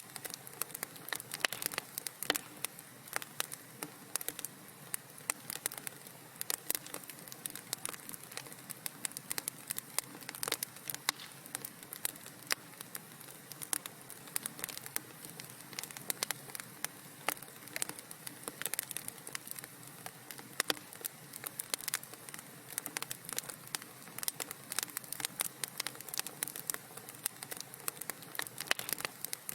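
Wood fire crackling in a fireplace: dense, irregular pops and snaps over a soft steady hiss.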